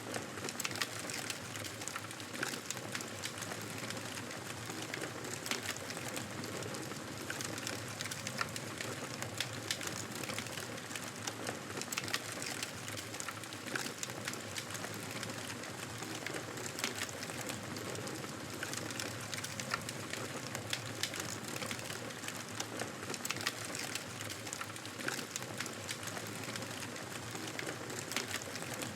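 Wood fire burning in a fireplace: a steady hiss dotted with many small crackles and pops.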